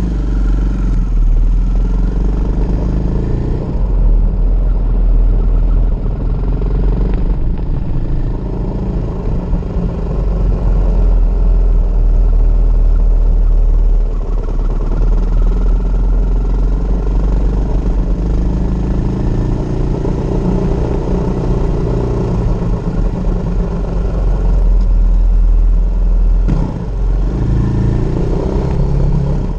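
KTM 500 EXC's single-cylinder four-stroke engine running on the road, revs rising and falling through the gears, under heavy wind noise on the helmet microphone.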